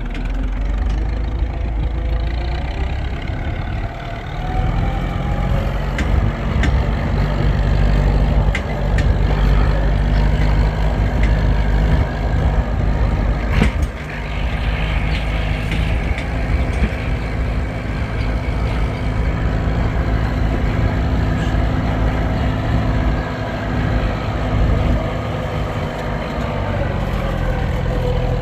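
A motor vehicle's engine running steadily with a low drone that steps up in pitch about four seconds in and then holds. There is one sharp knock about halfway through.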